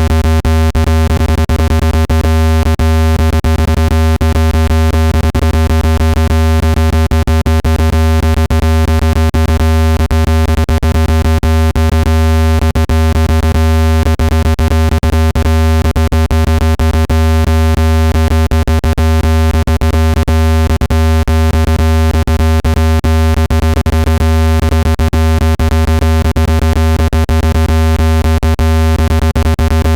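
Loud, steady synthetic deep hum with many overtones, broken by frequent clicks: a speaker-cleaning tone meant to vibrate dust out of a phone speaker.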